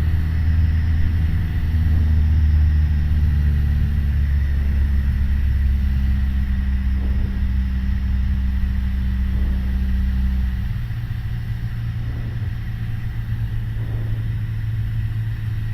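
Piper PA-28 Warrior's four-cylinder Lycoming engine and propeller droning steadily, heard from inside the cabin. About ten seconds in the note drops lower and a little quieter as the power is eased back.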